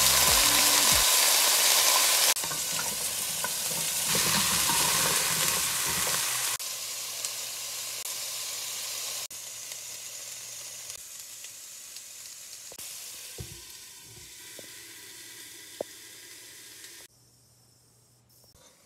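Pumpkin cubes sizzling in hot oil with cumin seeds and dried red chillies in a nonstick pan. The sizzle grows quieter in several steps, with a few light clicks, and falls to near silence near the end.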